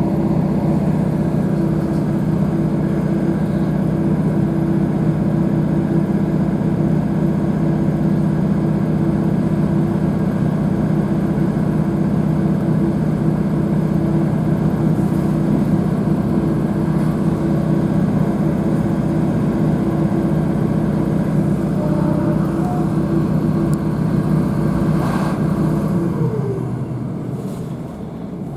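Class 156 diesel multiple unit's underfloor Cummins diesel engine heard from inside the carriage, droning steadily under power. About 26 seconds in, its pitch falls away and it quietens as the power comes off.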